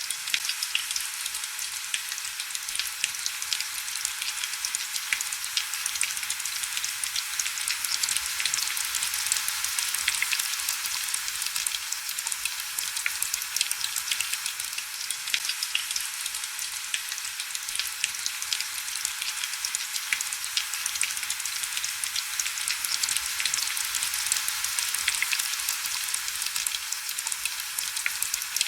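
Heavy rain falling steadily: a dense, even crackle of countless small drops, thin and high with no low rumble.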